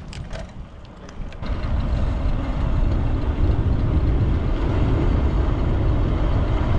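Loud low rumble of wind and road noise while riding a road bicycle, rising sharply about a second and a half in, with a few light clicks before it.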